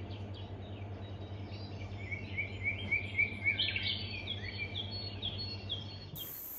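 Birds calling: a quick run of repeated short whistled notes from about two seconds in, then a higher series of short falling notes, over a steady low hum. Near the end the sound cuts abruptly to a steady high hiss.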